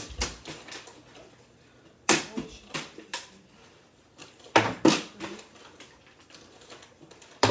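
Plastic water bottle tossed onto the top of a fridge, hitting hard and bouncing with a few smaller knocks after each hit. Three throws, about two and a half seconds apart, none staying put.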